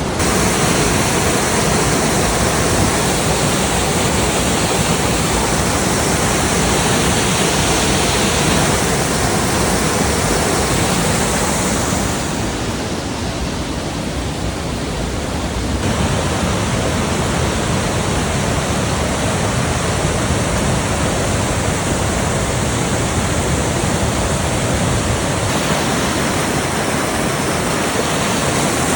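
Rushing water of a stream or small waterfall, a loud, steady rush. The high end of the rush drops for a few seconds in the middle, then returns.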